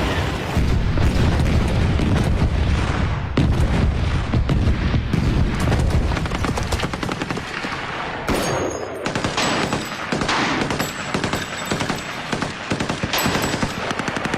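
Battle sounds: rapid machine-gun fire and scattered rifle shots, over a low rumble for the first half that fades by about eight seconds in.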